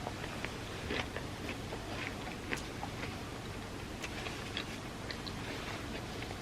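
Close-miked chewing of soft chocolate truffles soaked in warm almond milk: scattered small wet mouth clicks over a steady hiss.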